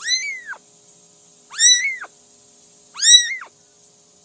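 Cat meowing three times, about a second and a half apart. Each meow is high-pitched, short, and rises then falls.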